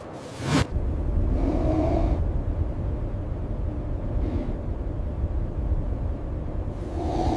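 Blizzard wind making a steady low rumble, with a few faint hollow howls rising and fading over it.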